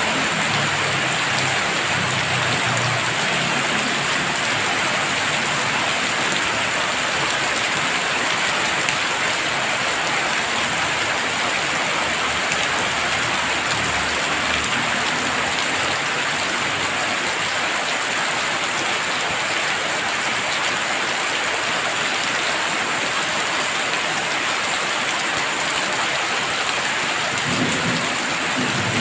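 Heavy rain falling steadily, a dense even hiss of drops on surfaces. A low rumble comes in the first few seconds and again just before the end.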